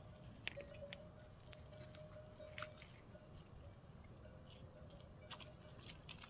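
Faint, intermittent bell-like ringing with scattered small clicks.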